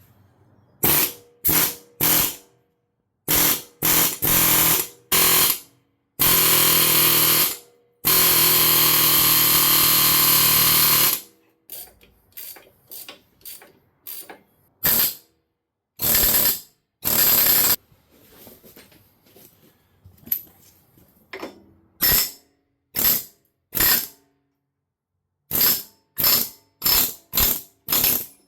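A power tool run in many short bursts, with two longer runs of about two and three seconds about six seconds in, driving the bolt of a homemade flywheel puller to break a stuck flywheel free of a small engine.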